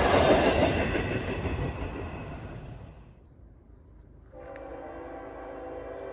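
A train rolling past, its rumble and rattle fading away over about three seconds. After a brief lull, a quieter steady hum with a few held tones comes in, along with a faint high chirp that repeats.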